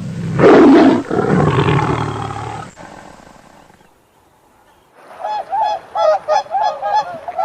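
A loud, rough animal roar that fades away over about three seconds, then, after a brief pause, a flock of geese starts honking in quick repeated calls.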